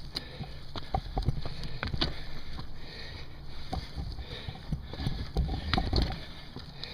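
Mountain bike riding over rough ground: a steady low rumble from the tyres, with scattered knocks and rattles from the bike.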